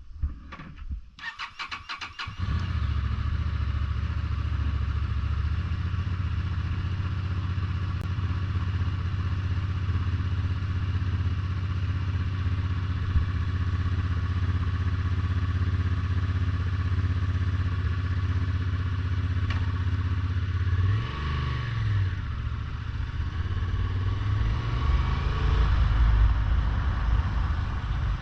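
A motorcycle engine cranked by its starter for about a second, catching about two and a half seconds in and then idling steadily. It is revved briefly, rising and falling, about twenty seconds later, and revved again, louder, a few seconds after that.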